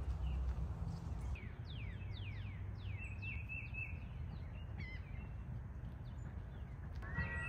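Birds singing over a steady low outdoor rumble: a quick series of downward-sliding whistles, then a short warbling trill and a few more calls. Background music comes in near the end.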